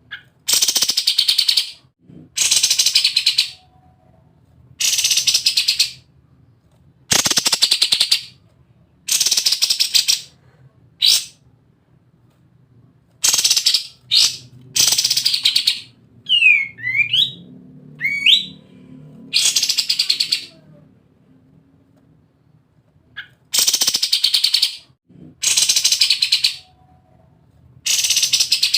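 White-shouldered triller singing: rapid, machine-gun-like rattling trills about a second long, repeated every one to two seconds, with a few clear descending whistled notes around the middle.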